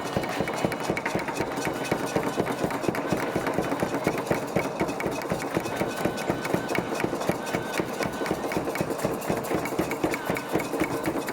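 Fast, steady percussive beating, several strikes a second, kept up without a break.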